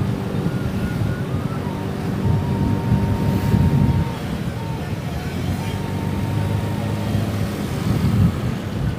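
Motorcycle engine running while riding on the road, swelling louder briefly about three to four seconds in and again near the end.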